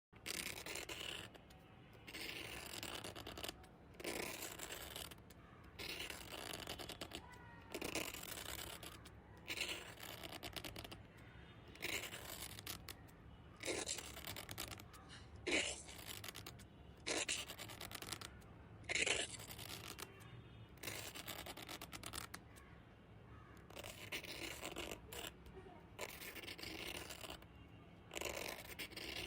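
A pen scratching on paper in a series of short drawing strokes, one after another with brief pauses between them, a few strokes sharper and louder than the rest.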